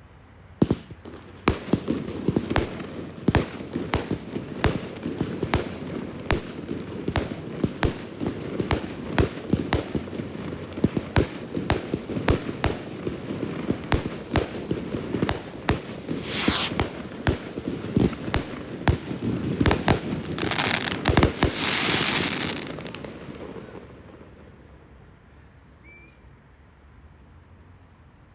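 Fireworks display: a rapid string of sharp bangs, several a second, with long hissing rushes near the end of the barrage, which then dies away a few seconds before the end.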